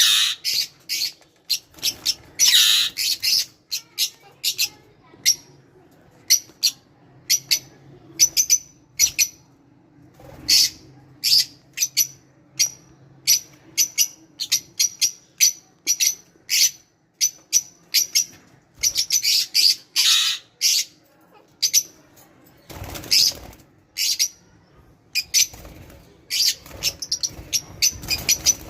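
Lovebirds calling in short, sharp, high-pitched chirps, one or two a second, with a few longer harsh squawks mixed in.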